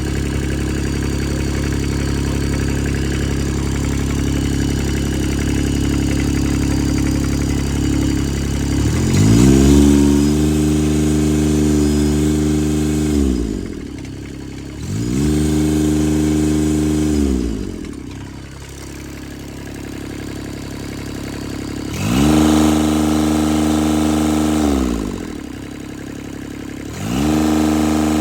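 Three-cylinder Kubota mower engine idling steadily, then revved up four times, each time held briefly at higher speed before dropping back to idle.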